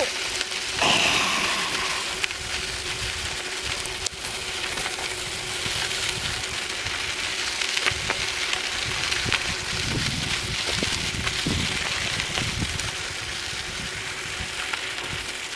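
Steady rushing noise of wind on the microphone and tyres rolling while a bicycle is ridden, with a faint steady hum and a few low bumps in the second half.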